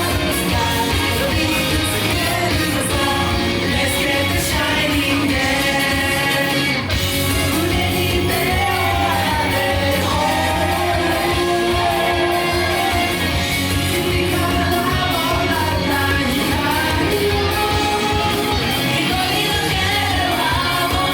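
Pop song with singing at a live idol-group performance, loud and steady.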